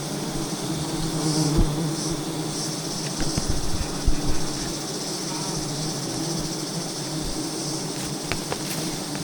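A swarm of giant honey bees buzzing in a steady drone, with a few low thumps about one and a half to four and a half seconds in.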